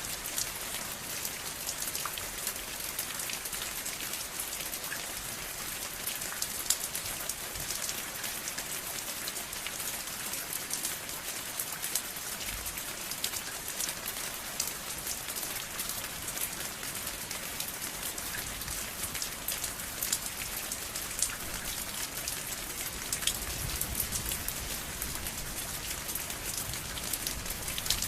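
Steady rain falling and pattering on a surface, a dense even hiss dotted with individual drop ticks, with a faint low rumble about twelve seconds in and again from about twenty-three seconds.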